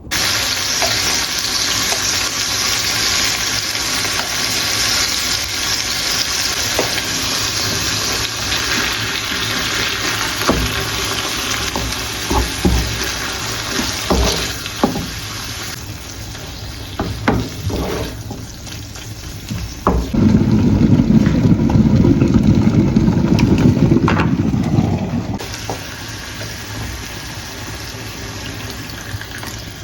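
Food sizzling in a frying pan, a steady hiss, with scattered knocks and scrapes of a utensil against the pan; a louder, deeper rush of noise comes in about two-thirds through and stops about five seconds later.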